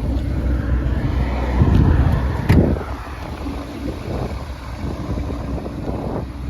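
Ferrari Portofino's twin-turbo V8 running, with wind rumbling on the microphone. A sharp click sounds about two and a half seconds in.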